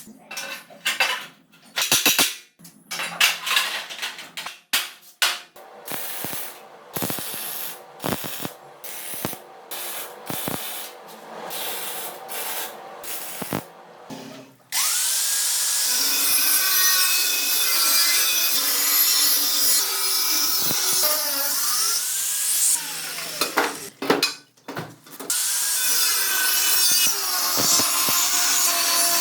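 Irregular clinks and knocks of hand tools and metal parts. From about halfway, a power tool runs loudly and steadily under load, its pitch sagging and rising, with a short stop near the end before it starts again.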